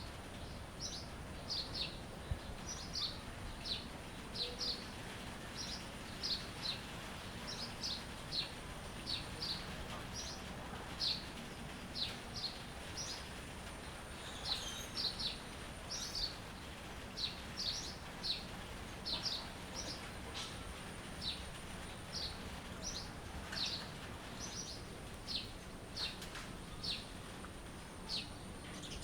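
Birds chirping: short high chirps, one or two a second, over a steady background hiss.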